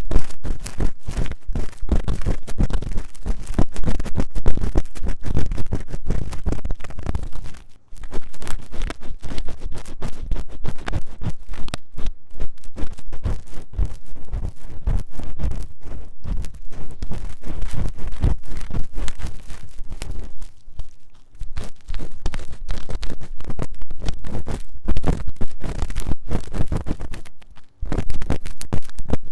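Ear-cleaning tool scratching fast and hard inside the silicone ear of a 3Dio binaural microphone: dense, rapid scratching and rubbing, with brief pauses about 8, 21 and 28 seconds in.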